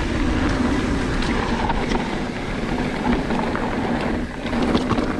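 Specialized Stumpjumper mountain bike rolling along a dirt trail: steady rush of wind and tyre noise with scattered small knocks and rattles from the rough ground.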